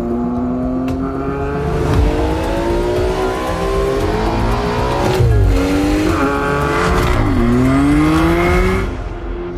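BMW M car engine accelerating hard, its pitch climbing through the gears with two quick upshifts, then cutting off near the end.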